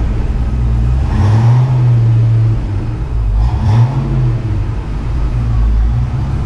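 A car engine running while the car is backed up a short way, the revs rising briefly twice, about a second in and again about three and a half seconds in.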